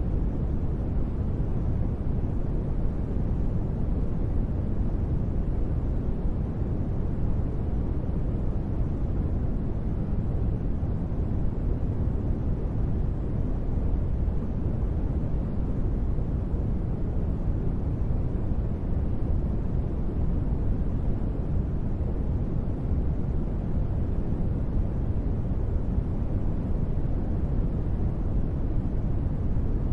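Steady, unchanging noise ambience, deep and rumbling with most of its weight in the bass and little treble, and no distinct events.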